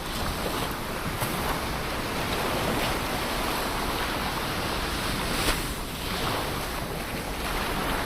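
Ocean waves washing onto the shore, a steady surf that swells and eases, with brief crackles of foam and spray about a second in and again past the middle.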